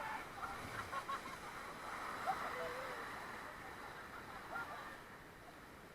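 River water rushing steadily, with faint, scattered voices over it.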